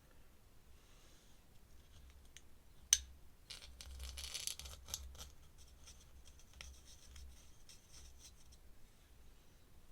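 Faint scratching and paper rustling from drawing paper and a pen being handled on a desk, with one sharp click about three seconds in.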